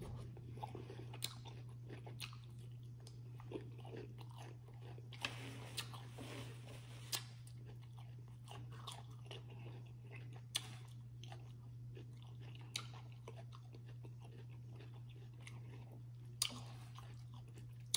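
Close-miked mukbang eating: chewing and biting on rotisserie chicken, with wet mouth smacks and scattered sharp clicks every second or two. A steady low hum runs underneath.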